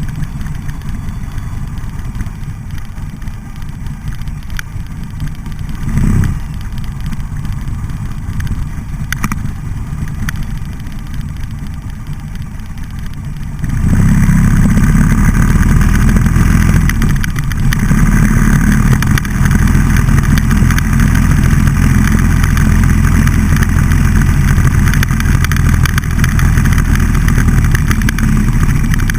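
Buell XB12Scg's air-cooled V-twin engine running while the motorcycle is ridden. About halfway through it gets much louder and stays loud.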